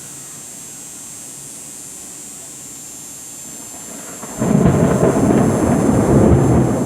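Thunder from a severe thunderstorm: after a few seconds of quiet hiss, a loud rumble breaks out suddenly about four seconds in and keeps going.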